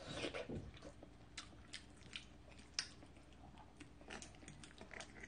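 Chewing and wet mouth sounds of a person eating a forkful of cream pasta, with a string of sharp clicks, the loudest about three seconds in.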